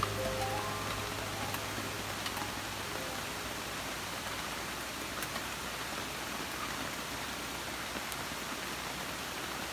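Wood campfire burning: a steady hiss with a few faint, scattered crackles and pops.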